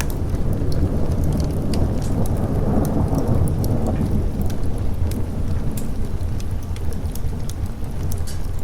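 Steady rain with a low, rolling thunder rumble that swells about two to four seconds in, over scattered sharp crackles.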